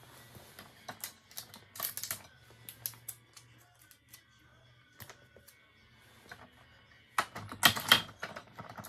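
Hands handling small hard craft pieces, sublimation magnet blanks and their plastic film: scattered clicks and taps, a cluster about a second in and a louder one near the end.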